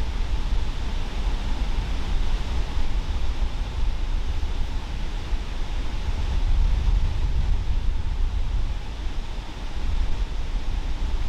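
Steady rushing outdoor noise with a deep, fluttering low rumble and no distinct events.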